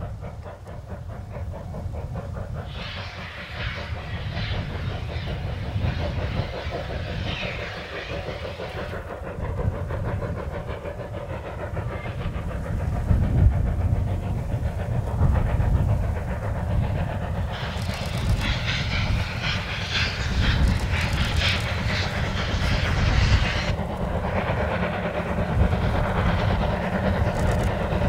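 D51 steam locomotive working a train: heavy low chuffing and rumble of the engine and wheels on the rails, growing louder, with two long stretches of steam hissing, one near the start and one about two-thirds through.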